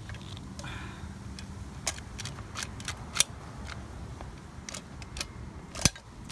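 Caulking gun being squeezed to squirt roof cement: a series of sharp, irregularly spaced clicks from the trigger and plunger, about eight over four seconds.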